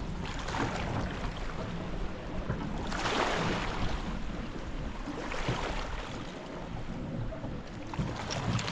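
Small lake waves washing against the shore, a rush that swells and falls every two to three seconds, with wind rumbling on the microphone.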